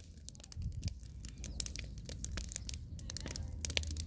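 Wooden pallets burning in a big bonfire, crackling with many irregular sharp pops over a low, steady rumble.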